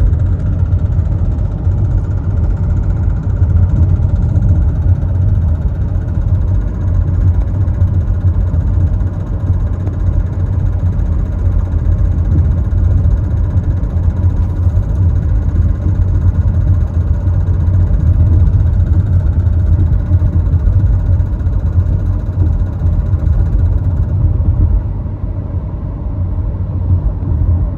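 2022 Nissan Rogue with the 1.5-litre turbo engine at cruising speed: a steady low drone of engine and road noise that eases slightly near the end. The owner records it for a rattle that comes at cruising speeds.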